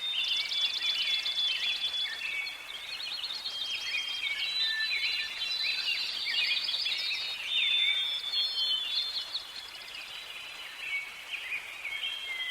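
Several birds singing and calling at once in a forest: overlapping chirps, short rapid trills and whistled notes, with no pause.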